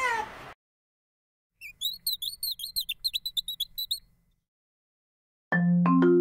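A rapid run of short, high bird chirps, about five a second for two and a half seconds, set between stretches of dead silence. Just before it, the tail of a cat's meow; near the end, a marimba tune starts and is the loudest sound.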